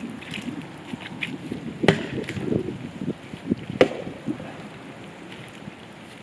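Axe chopping into a dead tree: two sharp blows about two seconds apart, with lighter knocks between.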